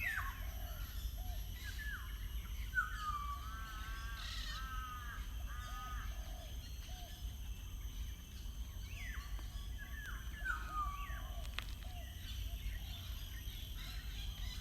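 Several birds calling: many short downward-sliding notes, with a run of repeated harsh calls a few seconds in, over a steady low background rumble.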